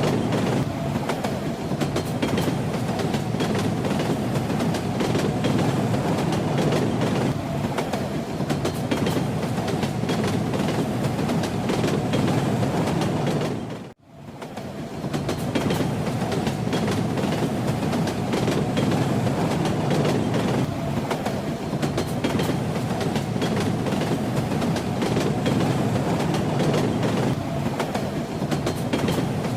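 Train running on rails: a steady rumble with the clatter of wheels over the track. About halfway through it fades out to near silence for a moment and swells back in.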